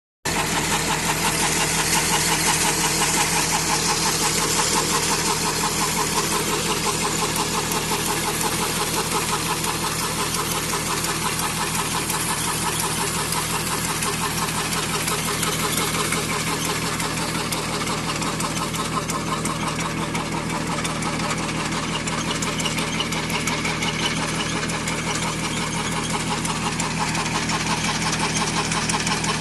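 A 24 HP Kubota tractor's diesel engine running steadily under load while it drives a 12.5 kVA alternator, with a rapid, even firing beat and a steady low hum.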